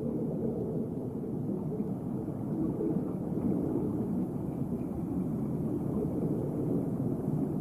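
Steady, muffled low rumble of underwater ambience with no distinct events.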